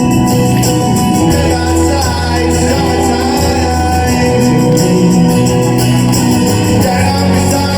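Live rock band playing a song with a singing voice, loud and continuous in a large concert hall.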